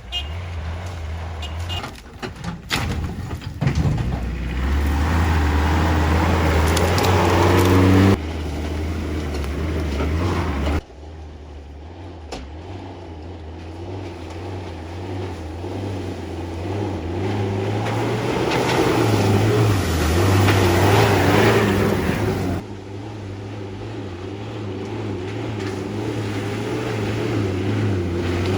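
Pickup truck engine revving hard under heavy acceleration during rough driving, its pitch rising and falling, with a few sharp knocks and clatters in the first few seconds. The sound changes abruptly several times.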